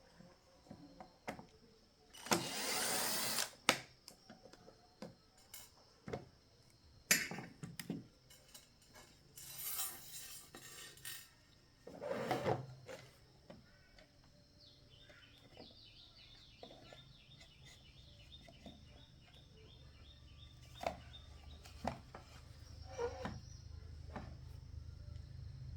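Scattered knocks, clicks and short bursts of noise, with a low engine hum that grows steadily louder toward the end.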